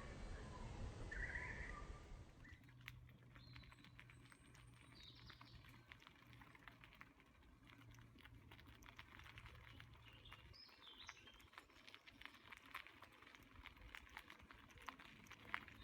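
Faint, sparse bird chirps over a light patter of tiny clicks, the whole very quiet; the background changes abruptly about two seconds in.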